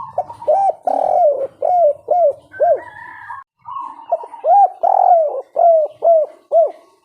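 Spotted dove (tekukur) cooing. There are two phrases of repeated coo notes, each note rising and falling in pitch, and the second phrase starts about four seconds in.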